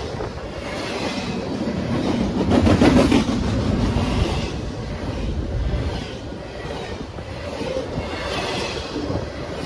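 Train rolling past, its wheels clattering over the rail joints in a recurring rhythm, loudest about three seconds in.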